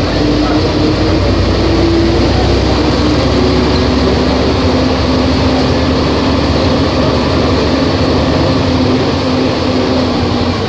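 Volvo B270F bus diesel engine running loudly under way. Its pitch rises over the first couple of seconds, drops about three seconds in, then holds steady.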